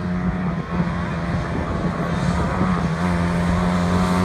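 Engine of an off-road vehicle running at a fairly steady speed, one held engine note with little change in pitch.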